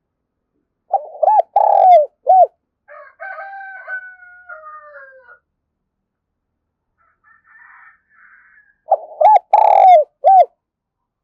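Spotted dove cooing: two phrases, each a quick run of four or five low, rounded coos, about eight seconds apart. Between them comes a fainter, drawn-out call with a slowly falling pitch.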